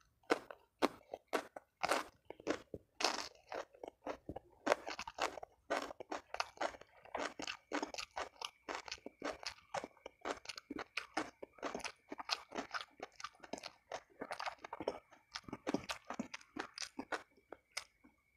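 Raw cucumber bitten and chewed close to the microphone: a steady run of crisp crunches, several a second.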